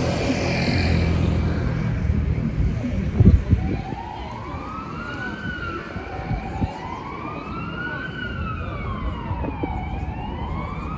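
Street traffic rumble, then from about four seconds in an emergency vehicle's siren wailing, its pitch slowly rising and falling about every three seconds.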